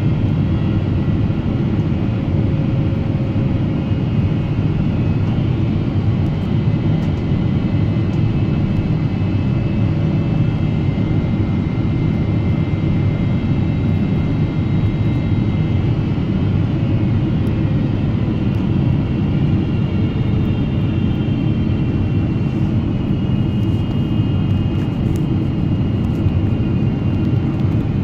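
Steady rumbling roar inside the cabin of a Boeing 777-300ER on final approach, its GE90 engines and the rushing airflow heard through the fuselage. Faint high whining tones drift slightly in pitch over the roar.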